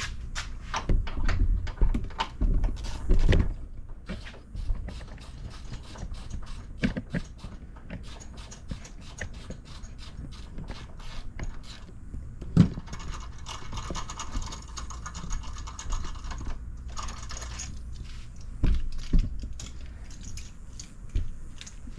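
A ratchet wrench backing out fasteners: a long run of rapid clicking, with thumps and knocks from handling parts. A steadier buzzing sound lasts a few seconds midway.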